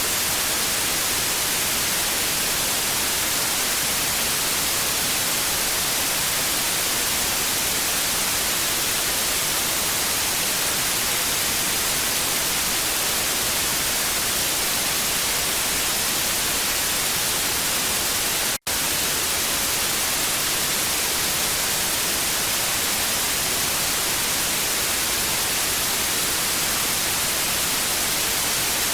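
Television static: a steady, even hiss, brighter in the high end. It cuts out for an instant about two-thirds of the way through, then carries on unchanged.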